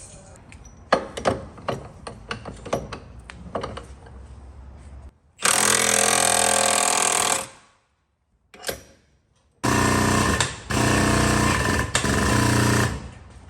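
A handheld power tool run in two long bursts of a couple of seconds each, steady and loud, working on car body metal, after a string of sharp metal knocks and clanks.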